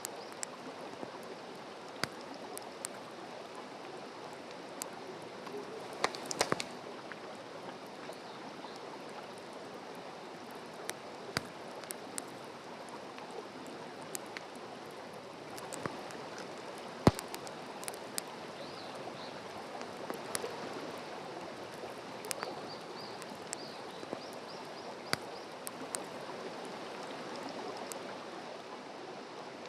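Wood fire burning: a steady hiss with irregular sharp crackles and pops from the burning wood. There is a quick cluster of pops about six seconds in, and the loudest single pop comes about seventeen seconds in.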